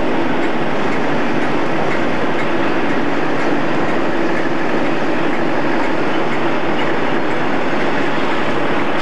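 Freight wagons loaded with steel coils rolling past close by: a steady, unbroken noise of wheels running on the rails.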